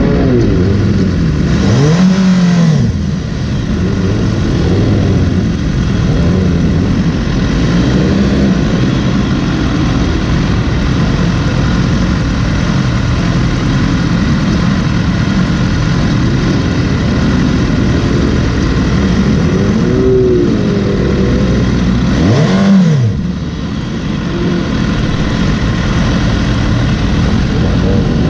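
Motorcycle engine being ridden hard around a race track, its pitch rising and falling as the rider works the throttle and gears. The engine note drops sharply twice, about three seconds in and near the end, as the throttle closes.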